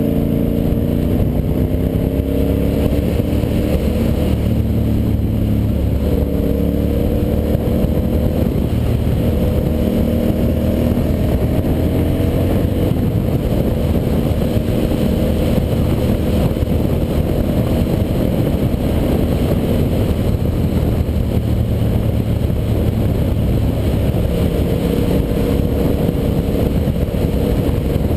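Ducati Monster 800's air-cooled L-twin engine running under a rider at road speed, its pitch rising several times as the bike accelerates, with steadier cruising between.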